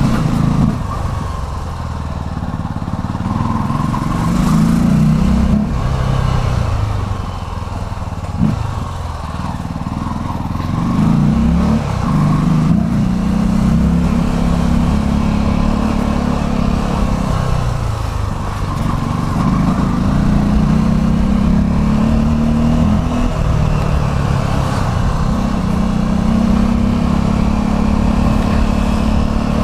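Motorcycle engine running while riding in traffic, its pitch rising and falling several times as it speeds up and slows, with low wind rumble on the microphone.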